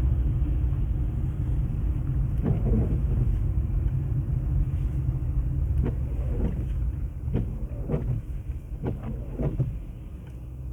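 Steady low rumble of a car driving on a snow-covered road, heard from inside the cabin, with a scattering of short knocks, most of them in the second half. The rumble eases off near the end.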